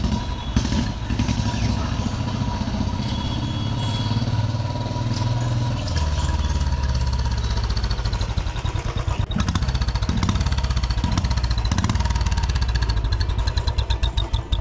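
Royal Enfield Bullet 350's single-cylinder engine running through an exhaust fitted with a turbo whistle: a steady low thumping with a thin whistling tone over it. The engine gets louder from about six seconds in, and near the end the beats thin out into separate thumps.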